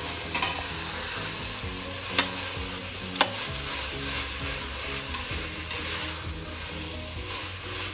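Chopped vegetables sizzling in hot oil in a stainless steel pot while a metal ladle stirs them, the ladle clacking sharply against the pot about two seconds in and again a second later.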